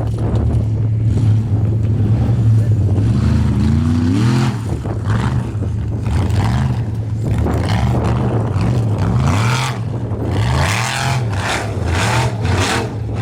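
Formula Offroad race buggy's engine revving hard and repeatedly, its pitch rising and falling in quick swells as the throttle is worked. In the second half there are harsh noisy bursts over the engine.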